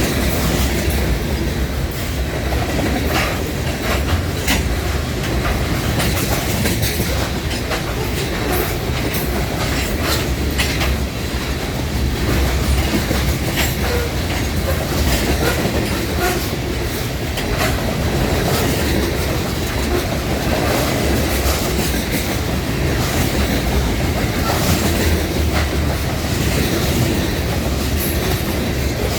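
Loaded freight cars of a sand train rolling past at track speed: a steady rumble with a constant stream of wheel clicks over rail joints, and now and then a wheel squeal.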